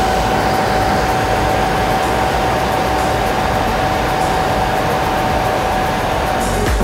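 A machine running at a steady speed: a rushing noise with a constant whine over it.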